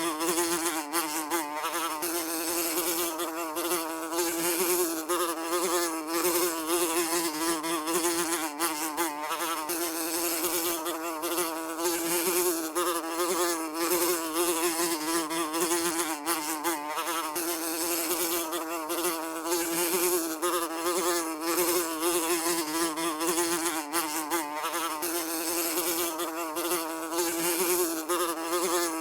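A fly buzzing without a break: a steady buzz that wobbles slightly in pitch.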